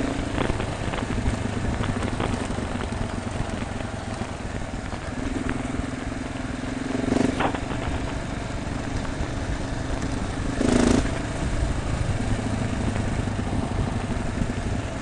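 Motorcycle engine running steadily under way, with wind rush over the microphone; two brief louder bursts come about seven and eleven seconds in.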